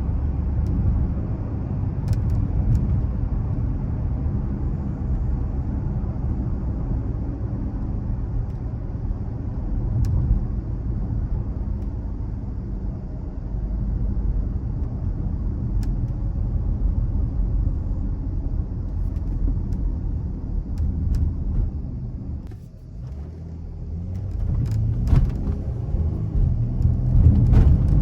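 Dodge Charger's 3.6-litre V6 engine and road noise while driving, a steady low rumble. A bit over three-quarters through it drops away briefly, then builds up louder again as the car accelerates.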